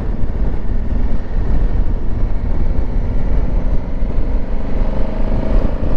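Motorcycle riding along at a steady pace: a continuous engine and road rumble mixed with wind rush on a helmet microphone.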